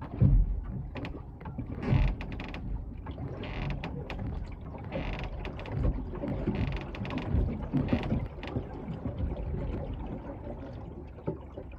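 Repeated bursts of mechanical ratcheting clicks, each lasting about half a second to a second, over a low steady rumble.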